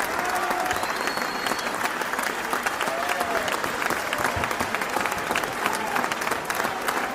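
Crowd applauding: steady, dense clapping, with a few voices faintly audible in it.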